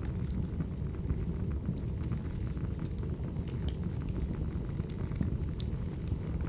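Burning firewood: a steady low roar of the flames with scattered sharp crackles and pops, two of them louder past the middle.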